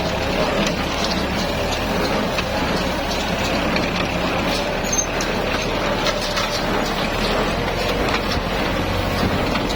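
Farm tractor engine running steadily under work, with a light scattered clicking of machinery over the drone.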